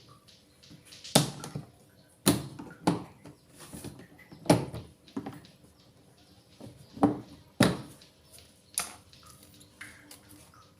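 About eight sharp, irregular knocks and clacks from hard plastic parts being handled and fitted on a twin-tub washing machine, with light rustling between them.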